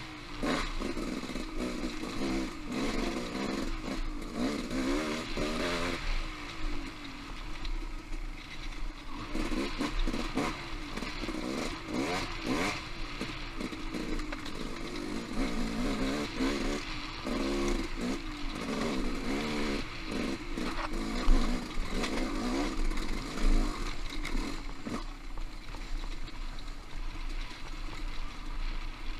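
Off-road motorcycle engine revving up and down while riding rocky singletrack, with clattering and scraping from the trail, and one sharp knock about two-thirds of the way through.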